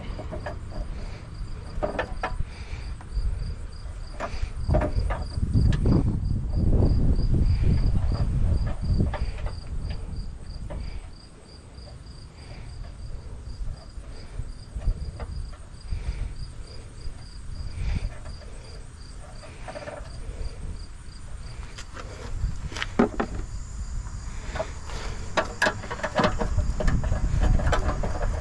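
A steady run of short, high chirps, about two or three a second, like an insect such as a cricket, which stops about three-quarters of the way through. Under it runs a low rumble that swells twice, with scattered knocks and clicks.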